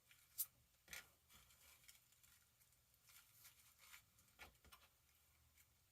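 Near silence with a few soft clicks and rustles of artificial rose stems being handled and pushed into the wreath center, the sharpest about half a second and one second in.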